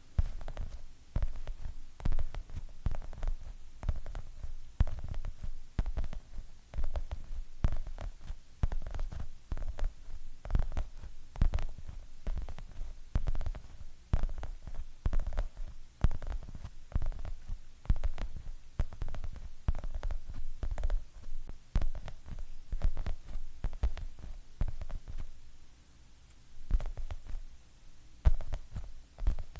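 Fingernails tapping quickly and unevenly on hard objects, deep thuds mixed with sharp clicks, with a short pause near the end.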